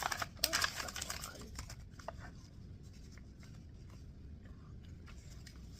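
Small plastic Lego pieces clicking and rattling as they are handled: a quick cluster of clicks in the first second or so, then a few scattered ticks over a low steady room hum.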